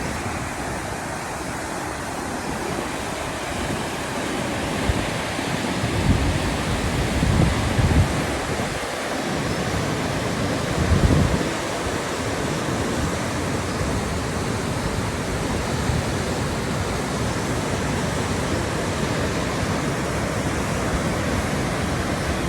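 Waterfall rushing, a steady roar of falling water, with wind buffeting the microphone in a few low gusts, several between about six and eight seconds in and another around eleven seconds.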